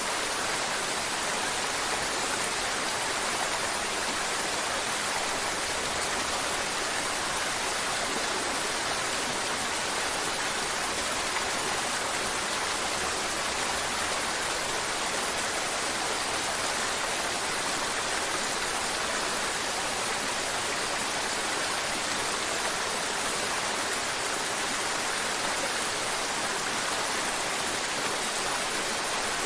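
Mountain river water flowing in a steady, unbroken rush.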